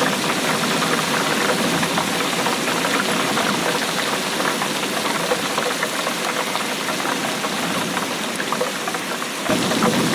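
Steady rainfall: a dense, fast patter of drops. About a second before the end it turns fuller and lower.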